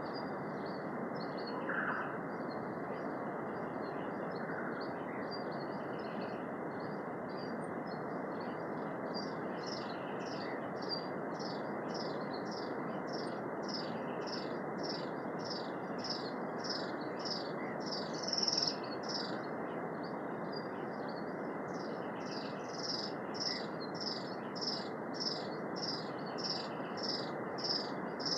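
Native forest ambience: a steady rushing background with a bird or insect repeating a short high chirp about one and a half times a second, the series getting going about a third of the way in.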